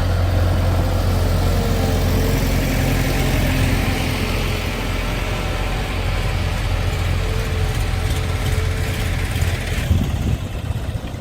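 Diesel engine of a tractor or backhoe loader running steadily at low revs; its low note drops away about ten seconds in.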